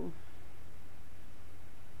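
Steady low background hum with faint hiss; no other distinct sound.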